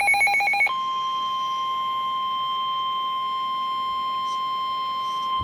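NOAA Weather Radio alert: the last of a rapid warbling burst of digital header tones, then about a second in the steady 1050 Hz warning alarm tone, held at one pitch and cutting off suddenly at the end. It signals that a warning is about to be read.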